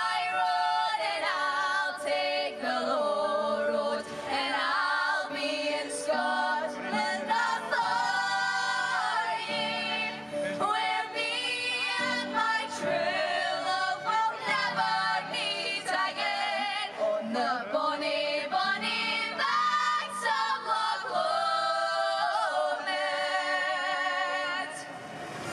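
Several voices singing together in harmony with held notes, unaccompanied.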